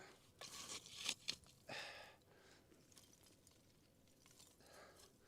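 A few short crunching and scraping handling sounds in the first two seconds, then faint quiet.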